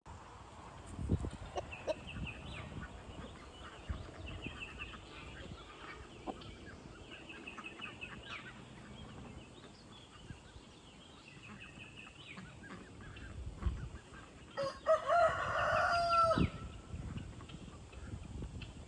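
A rooster crows once, a long call about two seconds long, near the end. Before it come softer short high trilled notes, repeated every second or two, and a few soft thumps.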